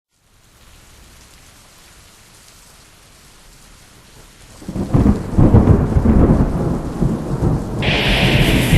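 Steady rain hiss, then a loud rolling rumble of thunder starting about four and a half seconds in. Near the end a brighter, louder hiss comes in over the rumble.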